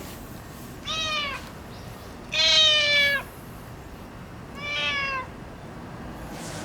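Orange tabby tomcat meowing three times, each meow dipping slightly in pitch at its end; the middle one is the loudest and longest.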